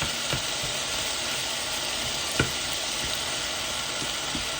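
Chicken pieces with carrots and cabbage sizzling steadily in a hot frying pan, with a few sharp clicks of a utensil against the pan, the loudest about halfway through.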